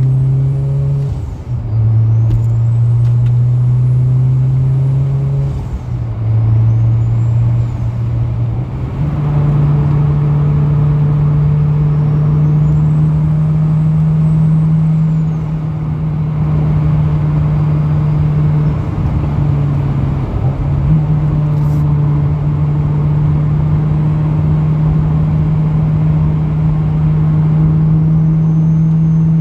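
Turbocharged Honda K20 four-cylinder in a Toyota MR2 running hard on track, heard from inside the cabin. The engine note drops and climbs several times in the first nine seconds as the driver lifts and shifts, then holds high, with a faint high turbo whistle rising and falling. A vibration noise runs through it, which the owner puts down to failing engine mounts.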